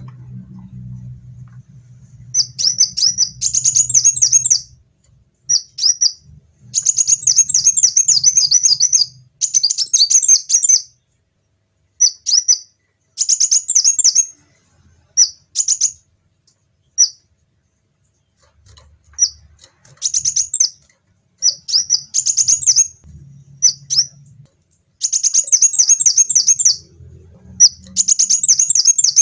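Kolibri wulung sunbird singing: loud, rapid, high-pitched twittering in phrases of one to two seconds, broken by short pauses.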